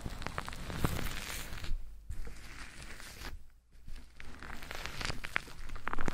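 Close-miked ASMR scratching and crackling on a microphone: a dense run of small clicks and rustles that stops briefly twice before picking up again.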